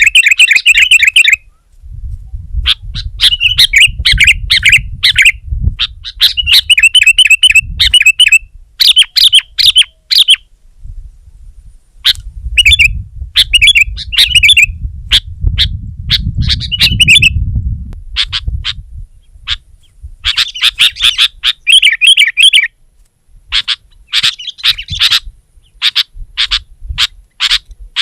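Sooty-headed bulbuls (kutilang) calling loudly in quick chattering phrases of a few seconds each, broken by short pauses. A low rumble runs under the calls at times.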